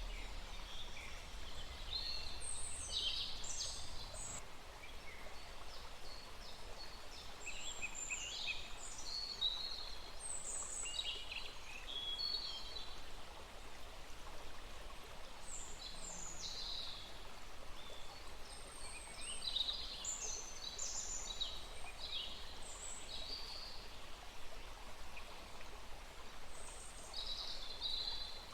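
A small stream running steadily, with songbirds calling in short high chirps and trills that come in clusters over the flowing water.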